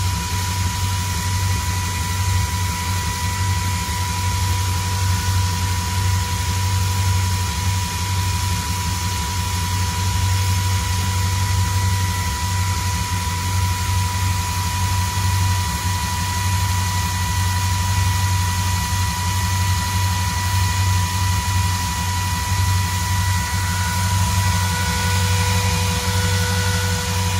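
383 stroker small-block Chevrolet V8 with Holley Sniper fuel injection idling steadily, with a thin high whine running over it.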